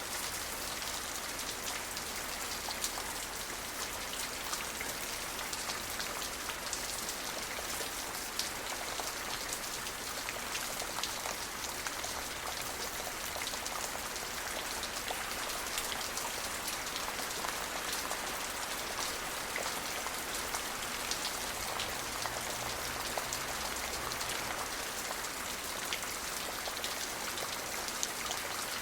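Steady rain falling on surfaces, a constant hiss dense with small drop ticks and no thunder.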